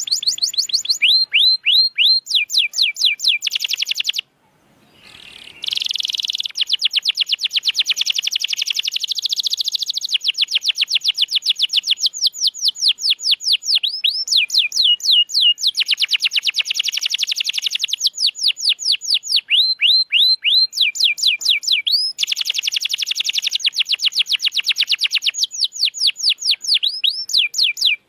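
Domestic canary singing loud, fast rolling trills of repeated sweeping notes, several notes a second, with a short break about four seconds in.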